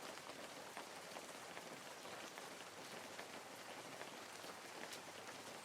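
Small garden waterfall fountain splashing steadily into a pond: a faint, even patter of falling water with scattered droplet splashes.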